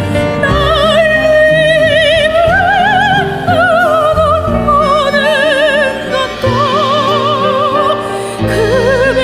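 Operatic soprano singing long, sustained notes with wide vibrato over a soft instrumental accompaniment; the melody climbs to a higher note about two and a half seconds in and falls back.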